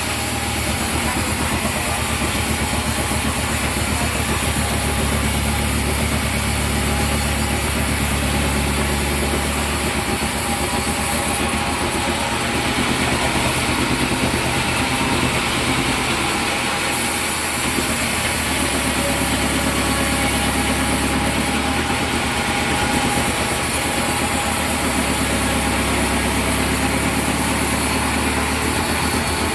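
Sawmill machinery running steadily with an engine drone that shifts slightly in its low end; the high end grows brighter twice, for about five seconds near the middle and briefly later on.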